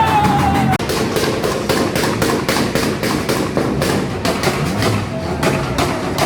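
A car's exhaust popping and cracking in a rapid, irregular string of loud bangs, about five a second: backfire from an engine held on a 2-step launch limiter.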